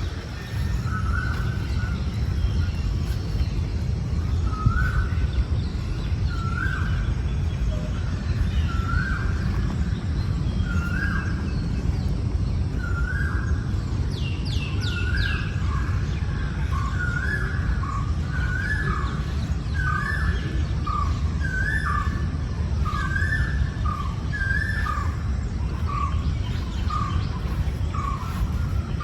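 Birds calling: one repeats a short call about every second and a half, joined in the second half by another bird's faster series of short notes, with a brief run of high falling notes about halfway. A steady low rumble lies underneath.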